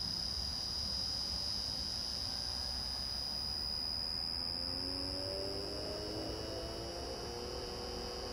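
Wagner 1/3 hp three-phase electric motor run from a Reliance Electric variable frequency drive. There is a steady high-pitched whine throughout, and from about halfway a lower motor hum rises slowly in pitch as the drive ramps the motor up to speed.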